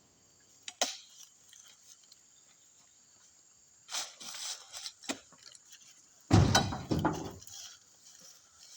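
Oil palm fruit bunches being loaded onto a truck: a loud, deep thump about six seconds in as a heavy bunch lands, with lighter knocks and rattles a couple of seconds before it.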